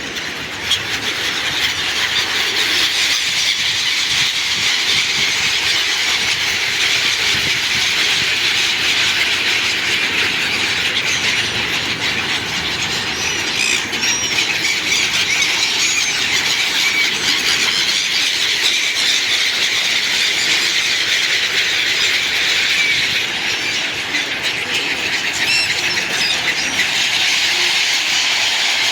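A large flock of birds chattering and calling all at once, a dense continuous chorus of high chirps that holds steady throughout.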